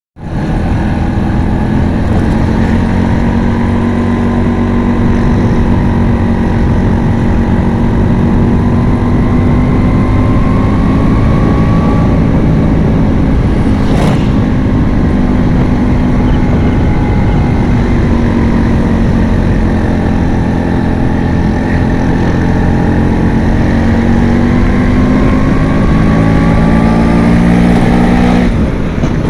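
Bajaj Chetak scooter's engine running steadily while riding, its pitch rising and falling slowly with road speed.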